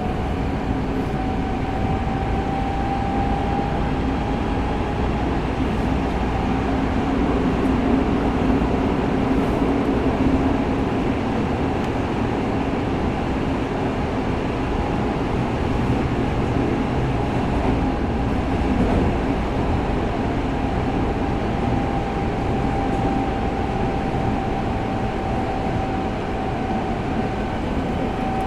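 Tokyo Metro 05 series subway train, with Mitsubishi IGBT VVVF drive, running between stations and heard from inside the car. A steady rumble of wheels and motors carries a thin, steady high whine above it.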